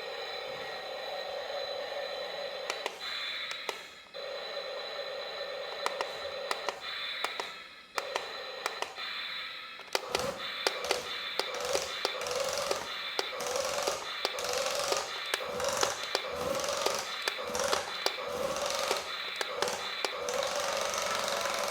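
Small electric motor of a DIY remote-control toy machine whining steadily, pulsing on and off with many sharp clicks and knocks from about halfway through.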